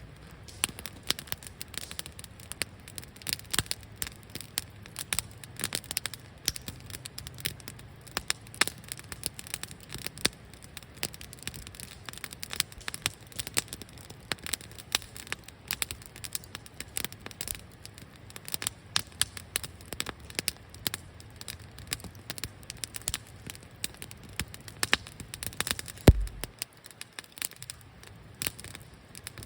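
Wood campfire burning in a fire stand, crackling with dense irregular snaps and pops, and one loud pop near the end.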